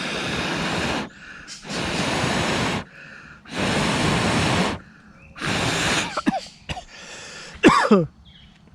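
A person blowing hard and steadily on smouldering embers and tinder to coax them into flame: four long breaths of about a second each. A short, loud squawk falling in pitch follows near the end.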